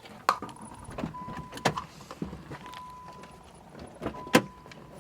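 Several sharp knocks and clicks, the loudest three spread across the few seconds, with a steady high beep sounding on and off between them.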